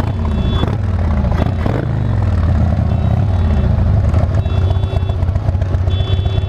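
Motorcycle engine running, its pitch dipping and rising briefly in the first couple of seconds and then holding steady. A short beeping tone repeats about every second and a half on top.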